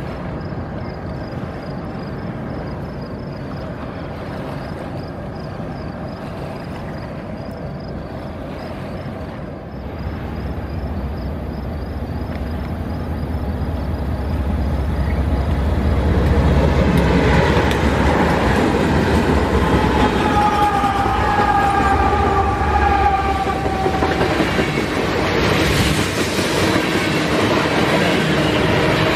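BNSF freight train with diesel locomotives approaching and passing close by. A steady distant rumble gives way, about ten seconds in, to a growing low engine drone as the locomotives near. Then tank cars roll past loudly, with a sustained high whine that sinks slightly in pitch for several seconds near the middle.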